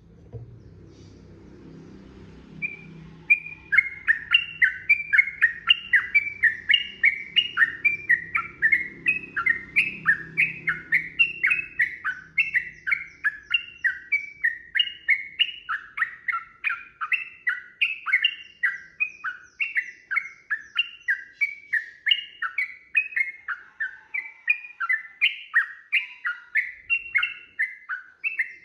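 Yellow-vented bulbul (trucukan) singing a long unbroken run of quick, bubbly, swooping notes, about three a second.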